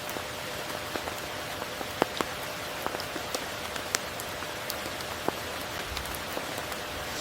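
Steady tropical rain falling on foliage and water, an even hiss with scattered louder single drops ticking through it.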